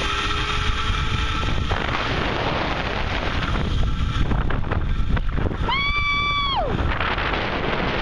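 Wind rushing over the microphone of a rider speeding down a zip line, with a thin whine from the trolley rising slightly in pitch for the first two seconds or so. About six seconds in there is a high yell, held for about a second and sliding down at its end.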